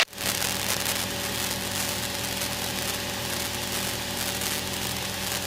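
Single-engine Cessna's piston engine and propeller droning steadily, heard inside the cabin at slightly reduced power.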